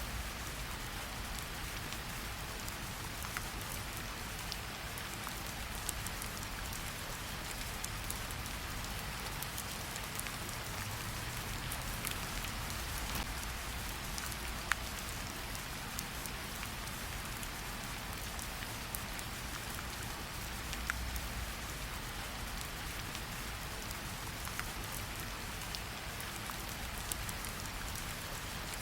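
Steady rain falling, an even hiss with scattered single drops ticking sharply.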